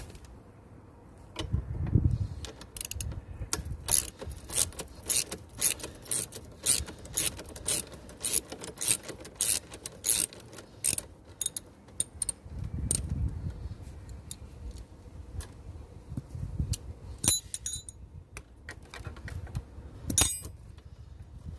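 A ratchet with a 13 mm socket clicking in quick strokes as the exhaust mounting bolts are undone, with metal tool clinks and a few dull knocks of handling. The clicking is densest in the first half and thins out later.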